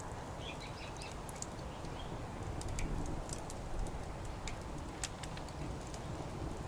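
Wood fire crackling in a Coleman Fire Disk fire pit, with scattered sharp pops over a steady low rumble. A bird chirps faintly in the first second or so.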